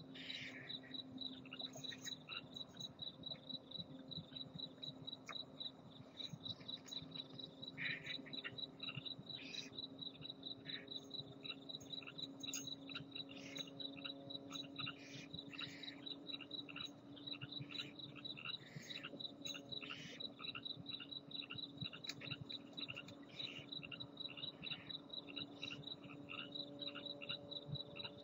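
Cricket chirping steadily in a fast, even rhythm of high pulses, with scattered brief raspy hisses and a faint low hum underneath.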